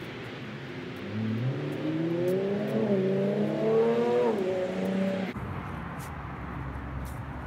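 A vehicle engine revving up, its pitch climbing over about three seconds and then falling away, over a steady hiss. It cuts off suddenly about five seconds in.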